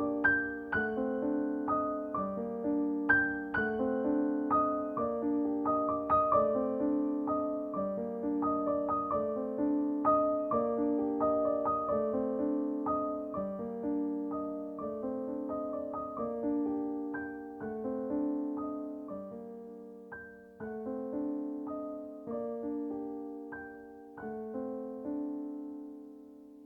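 Background solo piano music with notes played at an even, gentle pace, growing quieter in the last few seconds and fading out at the end.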